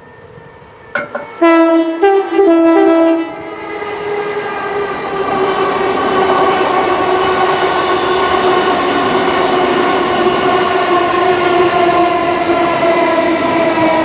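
A train's two-tone horn gives a brief blip about a second in, then a low–high–low call. The train then passes at speed, a loud steady drone with a slowly falling pitch over the rush of wheels on rail.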